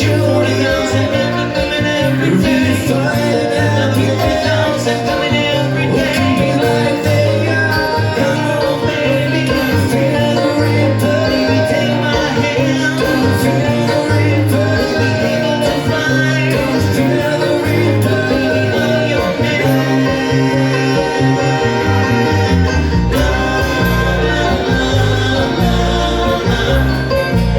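Bluegrass-style band music with guitar and other plucked strings over a steady beat; a heavier, deeper bass comes in near the end.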